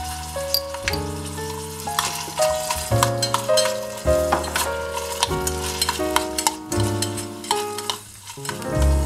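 Background music with a melody and bass notes, over the crackling sizzle of ground pork frying in a miniature copper pot as chopped carrots are spooned in and stirred. The music dips briefly near the end.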